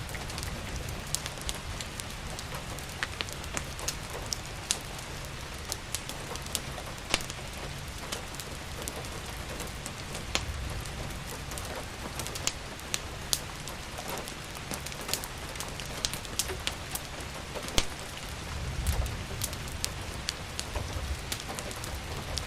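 Steady rain hiss with a wood fire crackling over it: many sharp, irregular pops and snaps. A low rumble swells briefly twice.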